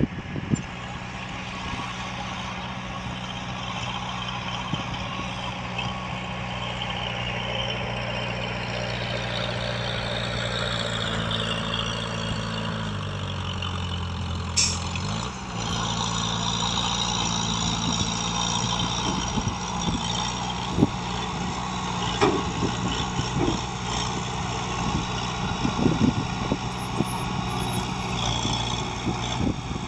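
Heavy diesel engine of earthmoving equipment running steadily. Its note shifts around the middle, with one brief sharp sound about halfway through and scattered knocks and clanks in the second half.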